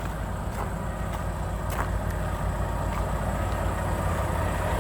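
Semi-truck diesel engine idling steadily, with a few faint clicks.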